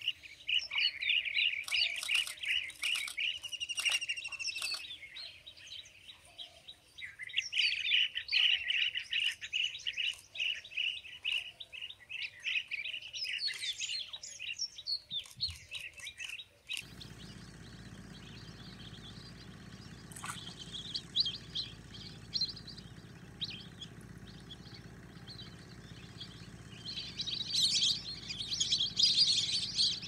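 Wild birds calling: dense chirping and trilling for the first half, then a sudden change to higher, quicker chirps over a steady low hum, growing busier near the end.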